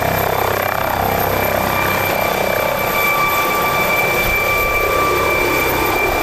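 Aircraft engine noise: a steady rush with a high whine held throughout.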